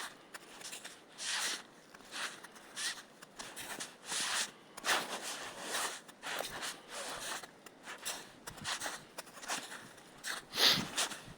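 Footsteps of a person walking over the forest floor: a run of short, uneven steps about one or two a second, with one louder step near the end.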